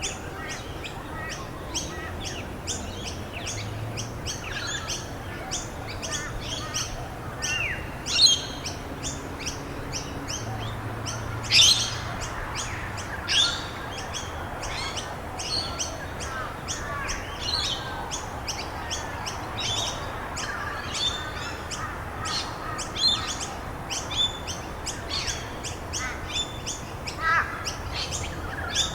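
Many small birds chirping and calling over a steady hiss of rain. A few louder sweeping calls stand out, about eight and eleven seconds in and again near twenty-three seconds.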